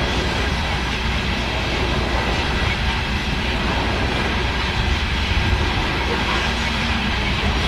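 Freight train's coal cars rolling past: a steady, low rumble of steel wheels on rail.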